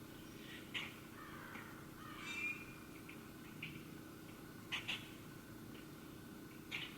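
Wild birds calling outdoors: about five short, scattered chirps and calls, one with a brief trill about two seconds in, over a faint steady background hum.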